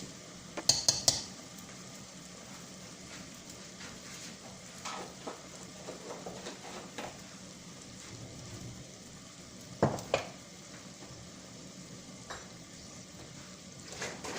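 Chicken pieces frying gently in a pan on low heat, a steady sizzle while being stirred with a spoon. A few sharp clicks of the spoon against the pan come about a second in, and two louder knocks about ten seconds in.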